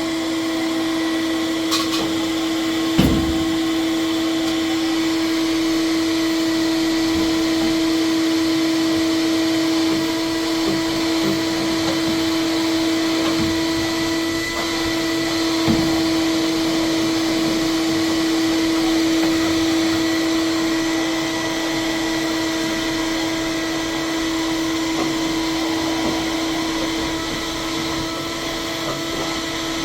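Vacuum cleaner running steadily with a constant whining hum, with a couple of brief knocks, about 3 and 16 seconds in.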